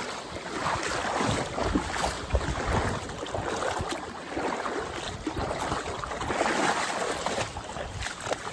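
Water sloshing and splashing in uneven surges, one every second or two, as someone wades across a shallow tidal inlet.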